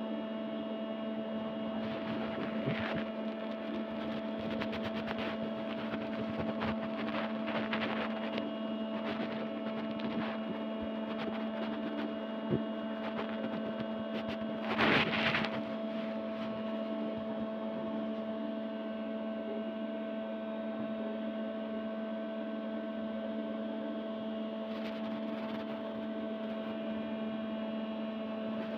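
A steady hum made of several unchanging tones, with a single sharp click a little before halfway and a brief louder rush of noise just after it.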